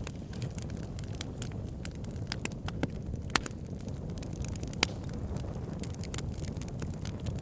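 Wood fire burning in a fireplace, crackling with scattered sharp pops over a steady low rumble of the flames; the loudest pops come about three and a half and five seconds in.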